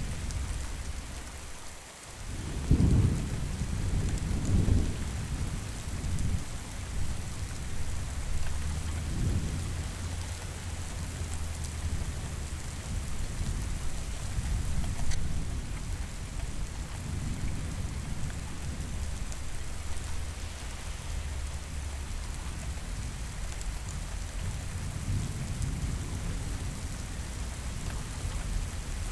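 Steady rain with rolling thunder. A loud low clap of thunder comes about three seconds in, followed by further rumbles over the next several seconds and softer low rolls later on.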